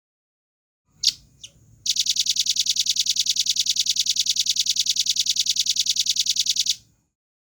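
Velvet-fronted nuthatch singing: two sharp high notes, then a fast, even trill of about ten notes a second that runs for some five seconds and stops.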